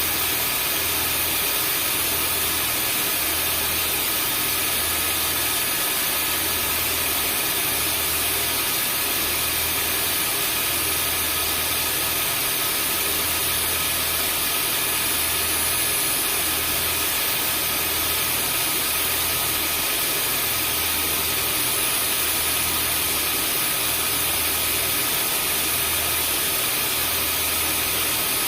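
Vacuum cleaner running steadily: a continuous rush of air with a faint high motor whine, over a low hum that throbs about once a second.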